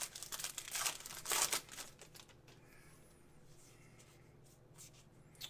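Crinkling and rustling of trading-card packaging being handled and torn, over roughly the first two seconds, then quiet handling with a small rustle near the end.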